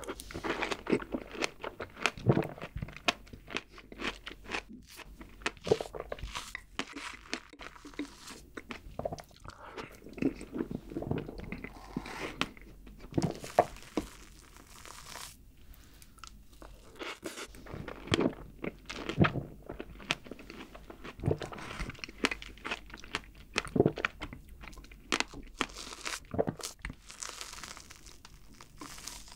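Close-miked eating of fresh strawberries and whipped cream, heard as irregular chewing and biting sounds. A metal fork taps and scrapes in the bowl between mouthfuls.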